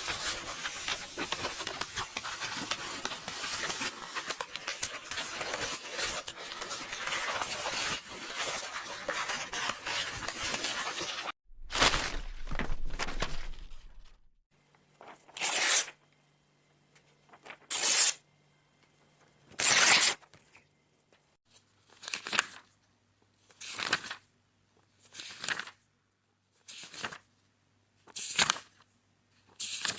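Paper tearing in a long continuous crackle for about eleven seconds. Then come separate quick swishes of book pages turning, a few seconds apart at first and then about one every second and a half.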